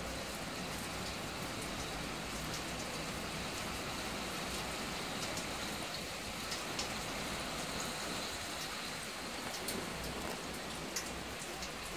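Steady rain falling, a continuous hiss with scattered sharp drops ticking on surfaces close by.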